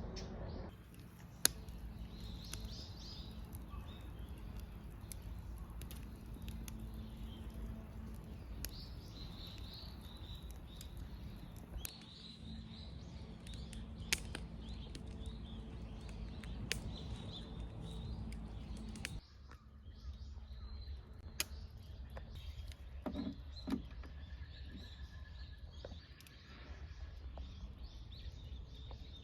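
Outdoor ambience with small birds chirping over a steady low rumble, and scattered sharp clicks.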